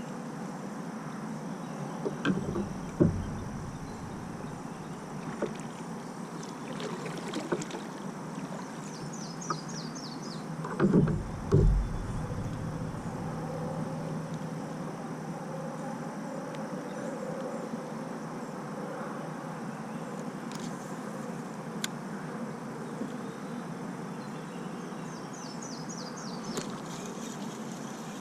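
Outdoor ambience from a fishing kayak on a lake: a steady background hiss, with a few low knocks and thumps against the kayak about three seconds and twelve seconds in. A short, rapid, high chirping trill comes twice, once near the middle and once near the end.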